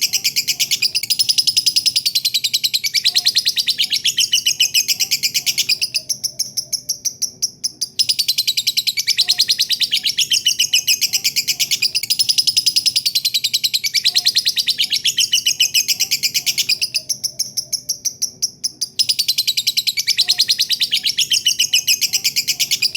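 Lovebird ngekek: a long, rapid, high-pitched chattering trill of many notes a second. It softens twice for about two seconds and picks up again.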